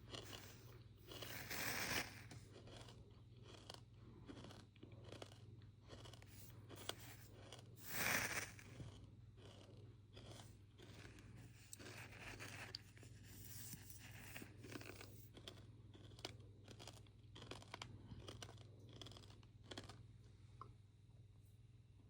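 Sand crunching and scraping in a quick, crackly run of small sounds, with two louder swells, one about two seconds in and one about eight seconds in, over a steady low hum.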